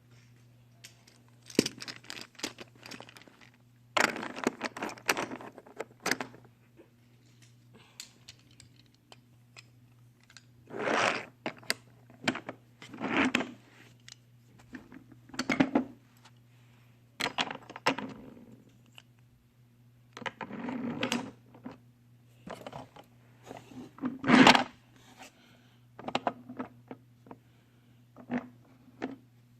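Irregular clicks and clatter of small hard toy trains being handled and moved about, some louder rattling bursts among lighter taps, over a steady low electrical hum.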